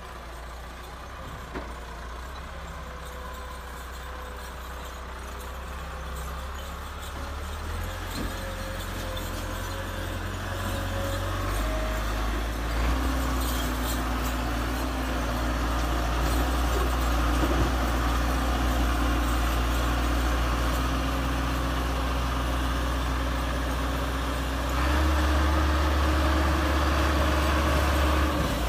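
Massey Ferguson tractor's diesel engine running steadily, its note stepping up and getting louder in stages, with a last jump about 25 seconds in.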